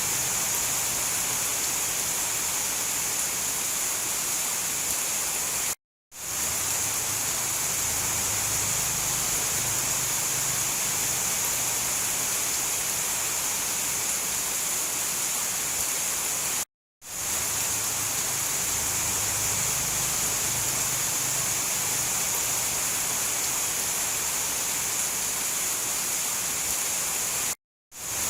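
Steady hiss of heavy rain, with no thunder claps. The sound cuts out to silence for a split second three times, about every eleven seconds.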